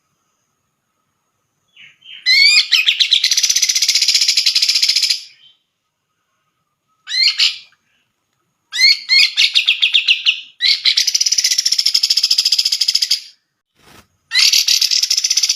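Cucak jenggot (grey-cheeked bulbul) singing in loud, rapid chattering phrases of quickly repeated high notes, several opening with a run of rising notes. The song starts about two seconds in and comes in five bursts with short pauses between them.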